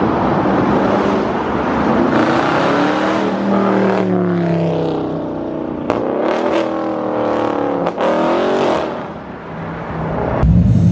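2021 Dodge Charger Scat Pack's 392 HEMI V8 under acceleration, its pitch rising and falling several times, then a sudden heavy low rumble just before the end.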